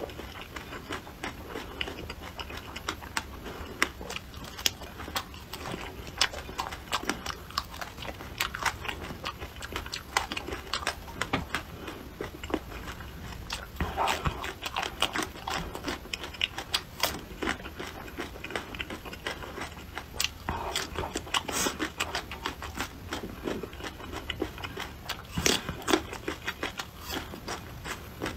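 Close-up eating sounds: crisp, crackly crunches and wet chewing of raw shallots and red chilli peppers, coming in many irregular bites.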